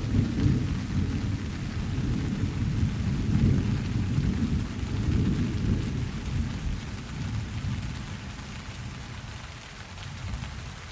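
Thunder rumbling low and long, fading away over the last few seconds, over steady rain.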